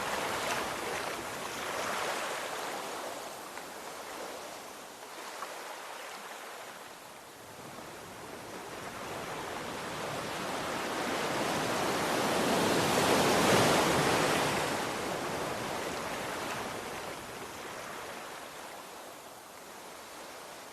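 Ocean surf washing onto the shore: a steady hiss of breaking water that swells slowly to its loudest a little past halfway as a wave breaks, then draws back and fades.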